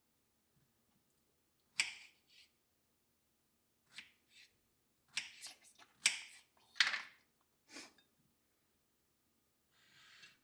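A series of sharp clicks and light knocks, about eight of them at uneven intervals, the loudest about two seconds in and again around six to seven seconds in.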